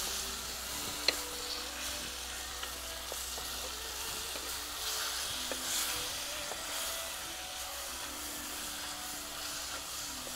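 Chicken and spring-onion stalks sizzling in soy and tomato sauce in a clay pot as they are stirred with a wooden spatula. A steady frying hiss runs through, with a few light knocks of the spatula against the pot, the sharpest about a second in.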